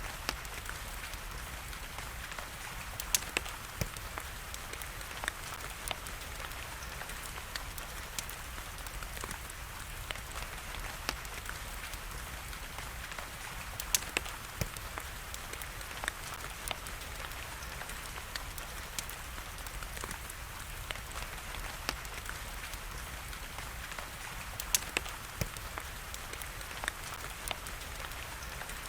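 Steady hiss of rain mixed with the crackle of a wood fire: a constant patter with scattered sharp pops, a few louder ones a few seconds in, about halfway through and near the end.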